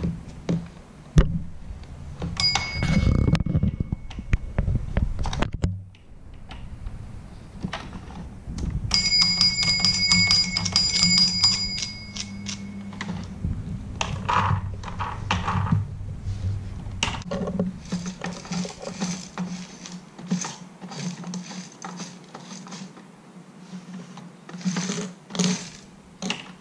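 Small bell on a toy farm playset ringing twice, the second ring brighter and longer, amid clicks and knocks of plastic toy figures being handled.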